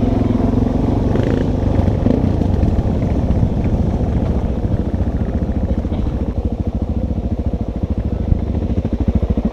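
Suzuki DRZ400's single-cylinder four-stroke engine running along a dirt trail, holding a steady pitch at first. About six seconds in the throttle eases off and the engine drops to a slow, even beat of firing pulses as the bike slows.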